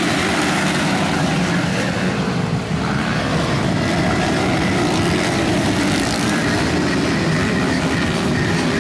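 Motocross motorcycles running on the track: several dirt-bike engines buzzing loudly together, their pitch rising and falling as riders work the throttle.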